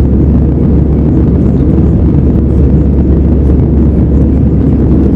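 Airbus A320 jet engines and rushing air during takeoff, a loud steady low rumble that holds even throughout.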